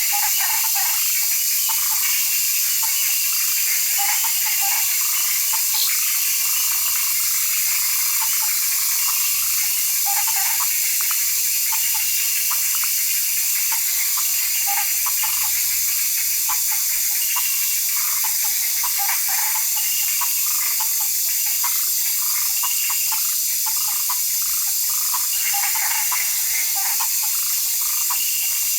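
Tropical forest ambience: a steady, high-pitched insect drone over a dense run of short gurgling, croaking notes.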